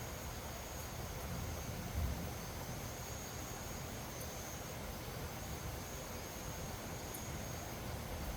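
Wind gusting over the microphone in low, uneven rumbles, with a bump about two seconds in, under a steady high insect trill.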